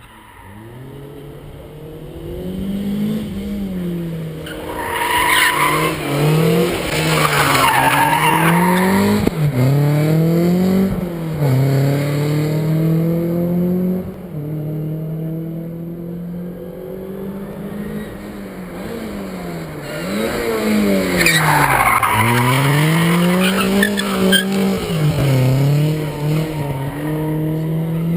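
MG rally car's engine revving hard through the gears, its pitch climbing and then dropping sharply again and again as it shifts and lifts off. Bursts of tyre squeal come about five seconds in and again a little past twenty seconds.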